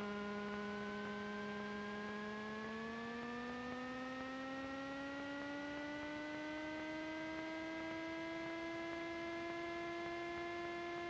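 Cessna 310 twin piston engines run up in the cockpit, a steady droning tone that rises smoothly in pitch from about two seconds in and settles higher a few seconds later. This is the throttles being advanced against the brakes just before the takeoff roll.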